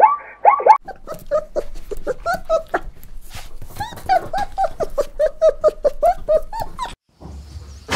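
A small dog yapping in a quick run of short, high yips, about five a second. It is preceded in the first second by a few loud barking calls.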